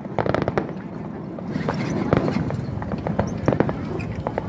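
Fireworks crackling: scattered sharp pops over a steady low rumble.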